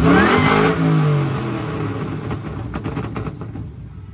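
Car engine revved hard, then the revs drop away and the engine sound fades over the next few seconds.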